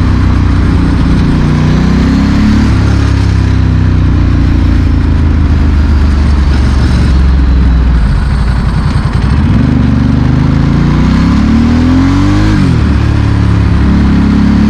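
Ducati Monster S4R's L-twin running through a straight, loud aftermarket exhaust while riding, its pitch rising and falling as it accelerates and eases off. Near the end it revs up steadily for about two seconds, then drops off sharply at a gear change.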